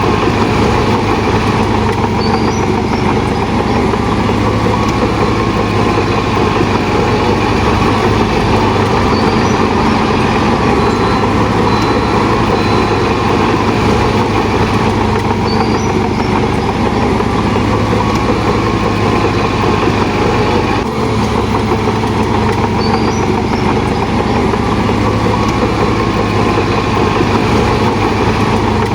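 Heavy diesel engine of a Shantui DH17 bulldozer running steadily, with a continuous low drone and dense mechanical noise and a brief dip about two-thirds of the way through.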